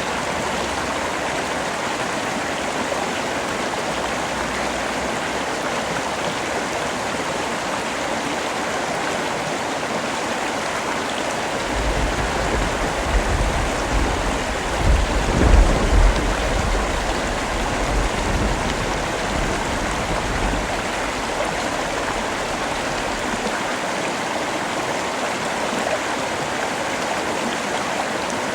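Steady, heavy rain falling, with a long low rumble of thunder that rolls in a little under halfway through, is loudest for a moment in the middle and dies away over about ten seconds.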